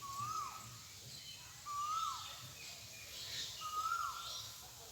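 A bird calling three times, evenly spaced: each call a short held note that then drops sharply in pitch, over faint outdoor background noise.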